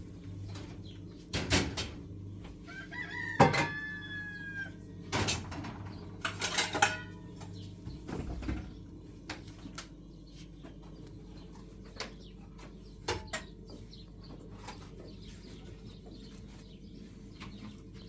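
A rooster crowing once, for about two seconds starting about three seconds in, amid several sharp knocks and clatter in the first half.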